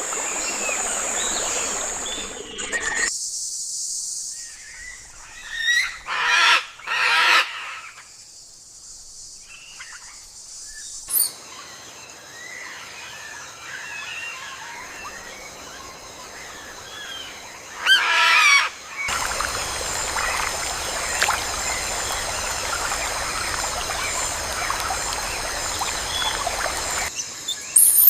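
Jungle ambience: steady high insect buzzing with bird chirps, changing abruptly several times. Three loud squealing animal calls come about a quarter of the way in, and another just past halfway.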